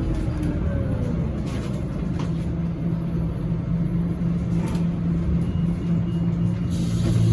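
Scania Citywide LF city bus engine running under way, a steady low hum over road rumble, with a few faint clicks and rattles.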